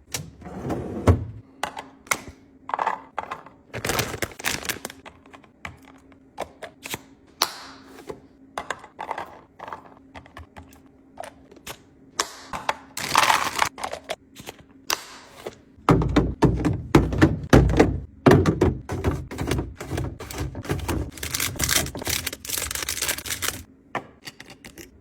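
Containers and food being taken out, set down and moved around in a refrigerator: an uneven run of knocks, clicks and clatters, busiest and heaviest about two-thirds of the way in.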